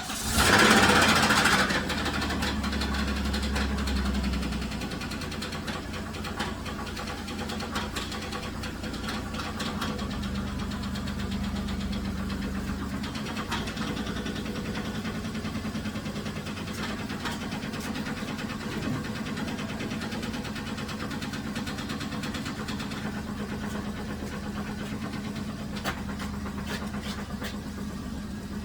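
2007 Dodge Grand Caravan engine starting right at the beginning and running at a raised fast idle, which drops to a steady idle about five seconds in. A repeated knock comes through the running engine, which the owner suspects may be loose torque converter bolts rather than an engine knock.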